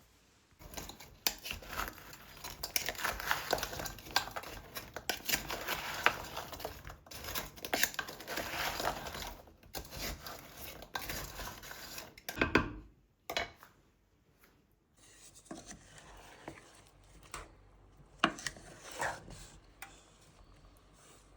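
Kitchen handling sounds: dishes and utensils clinking and rustling busily for about twelve seconds, then only a few scattered knocks.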